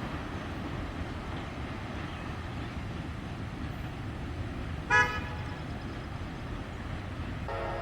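Steady rumble of a train going by, with one short, loud horn toot about five seconds in. Near the end a locomotive horn starts sounding, a held chord of several tones.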